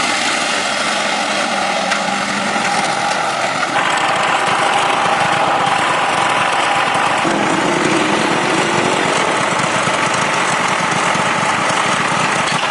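Loud, steady machine noise, as from a small engine or power tool running, with sudden changes in tone about 4 and 7 seconds in.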